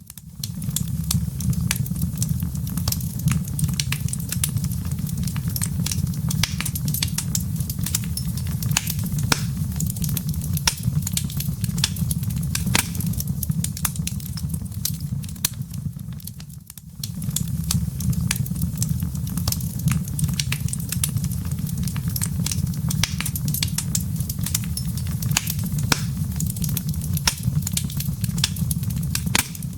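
Wood fire in a fireplace, embers crackling: dense, irregular sharp pops over a steady low rumble of the flames. The sound dips briefly about two-thirds of the way through.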